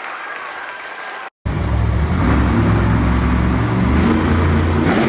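Applause, cut off abruptly about a second and a half in, then a loud, steady engine sound with a deep low rumble: an edited-in engine-revving sound effect.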